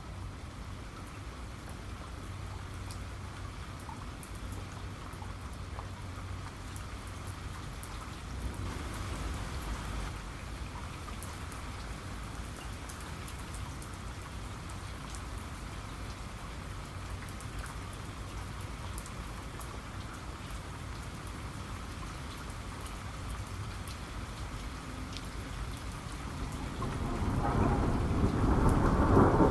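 Steady rain with scattered drops pattering on a surface. A low rumble of thunder builds near the end and becomes the loudest sound, after a smaller swell about nine seconds in.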